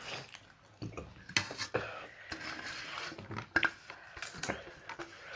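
Eating sounds: scattered light clicks and taps, as of a utensil on a plate, with soft wet squishing between them.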